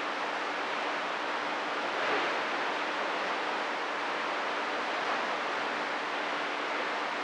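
CB radio receiver hissing with steady static between transmissions, a faint low hum under the noise.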